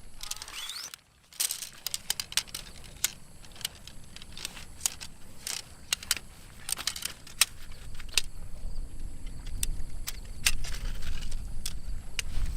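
Irregular sharp clicks and light clinks of small hard objects, with a brief cut to silence about a second in.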